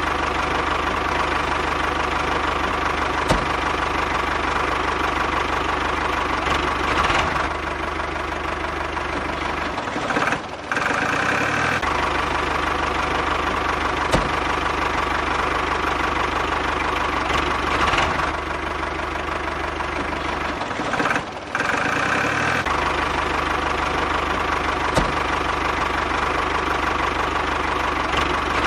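An engine running steadily with a knocking beat, like a tractor's diesel. The same pattern of ticks, swells and short drop-outs comes round about every eleven seconds, as a looped engine sound does.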